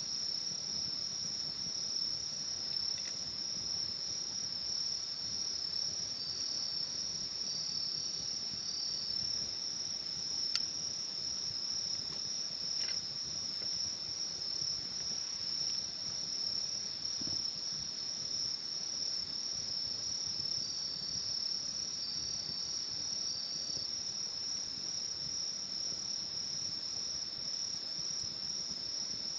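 Insects trilling in a steady, high-pitched chorus, with a second, fainter trill joining in twice for a few seconds and a single click about ten seconds in.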